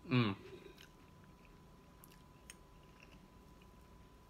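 A brief voiced sound right at the start, then faint chewing and a few soft clicks of a fork against a plate of food.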